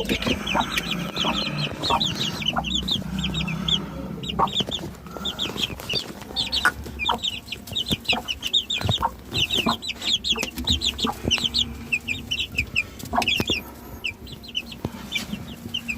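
A brood of 23-day-old chicks peeping continuously in many short, high chirps that overlap, with a few light taps mixed in.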